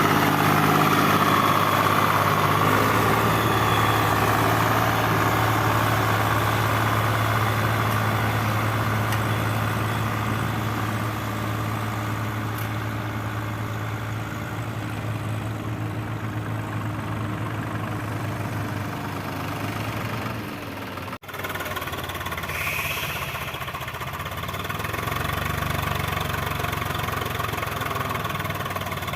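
Swaraj 744 tractor's diesel engine running steadily at a low, even speed. The sound cuts out sharply for a moment about two-thirds of the way through, then carries on.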